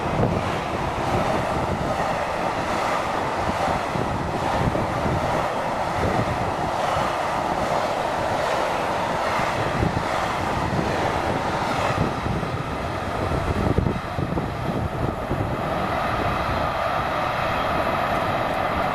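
Container freight train wagons rolling along the rails, a continuous rumble of steel wheels with repeated clicks as they cross rail joints; the clicks die away about three quarters of the way through as the last wagons pass.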